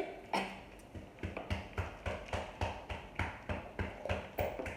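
Close-miked chewing of a mouthful of food: a steady rhythm of chews, about four a second.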